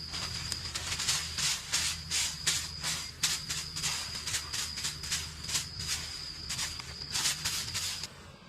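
Repeated short rasping strokes, about two or three a second, like hand work with a tool, over a steady high thin tone. Everything stops abruptly about eight seconds in.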